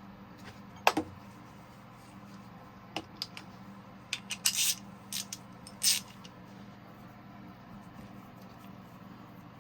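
Hand tools clinking and scraping on metal parts of a Caterpillar 3406E cylinder head while an injector is taken out. There is one sharp ringing clink about a second in, then scattered clicks and short scrapes between about three and six seconds, over a steady low hum.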